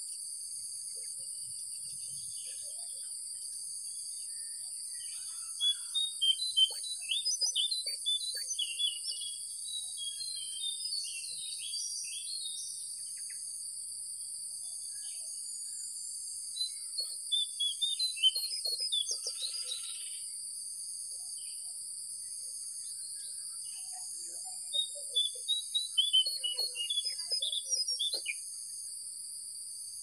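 A songbird sings three bouts of quick, chirping phrases about ten seconds apart. Under it runs a steady, high insect drone with an evenly pulsing trill, typical of cicadas or crickets.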